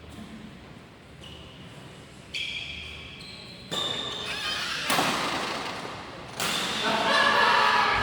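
Badminton play in an echoing sports hall: a series of sudden sharp hits, several followed by brief high-pitched ringing tones, getting louder in the second half.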